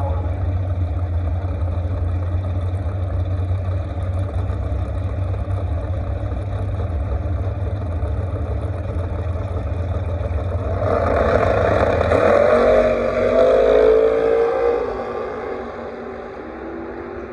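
Drag-race car engines: a steady low rumble, then about eleven seconds in a car launches down the strip, loud, its engine pitch climbing before it fades away.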